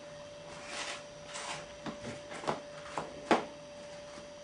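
Plastic magnetic fridge letters clacking and sliding against a fridge door: a couple of soft scrapes, then several short light clicks, the sharpest about three seconds in. A steady faint hum runs underneath.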